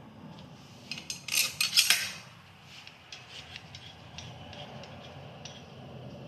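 Metal tools and hardware clinking and rattling as they are handled. There is a quick cluster of sharp clinks about a second in, then lighter scattered ticks.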